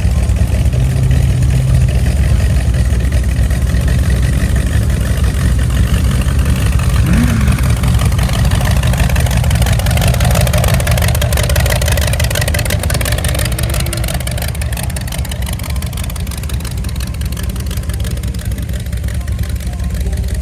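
A car engine running with a steady, deep rumble that eases off slightly in the last few seconds.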